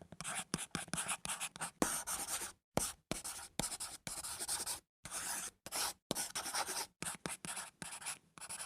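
Writing sound effect: a pen scratching across paper in quick, irregular strokes, broken by short pauses.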